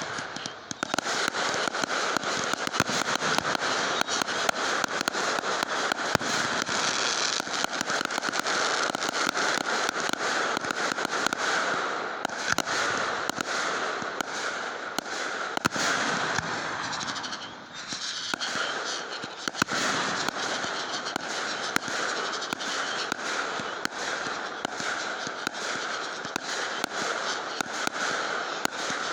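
Fireworks going off in a dense, continuous crackle of rapid pops, easing briefly about seventeen seconds in and then picking up again.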